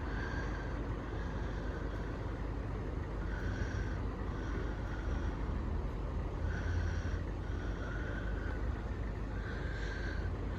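Steady low background rumble with a bird repeatedly giving short, harsh, caw-like calls, roughly every second or two.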